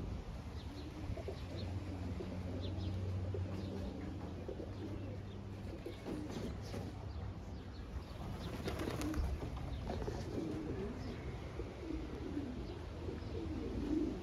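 Racing pigeons cooing in the loft, with a few wing flaps and scuffs about two-thirds of the way through, over a steady low hum.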